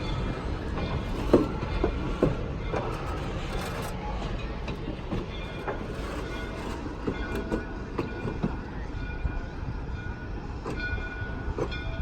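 Shay geared steam locomotive moving on the track: a low rumble with irregular clanks and knocks, strongest in the first few seconds, and faint steady higher tones later on.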